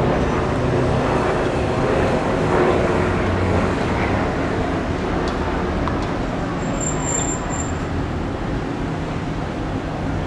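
Steady motor-vehicle engine and traffic hum with a low drone, and a brief high-pitched whine about seven seconds in.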